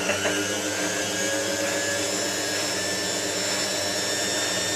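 Hotpoint 9534A washing machine on its spin, the drum turning at speed with a steady motor whine that rises slightly in pitch and then holds.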